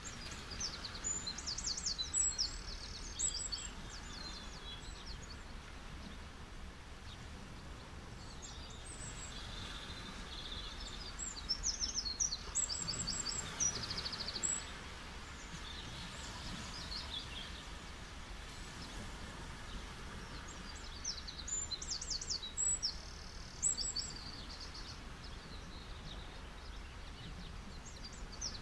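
Gentle ocean waves washing on a beach as a steady hiss, swelling a little midway. A songbird sings a quick, high, chirping phrase three times, once near the start, once in the middle and once near the end.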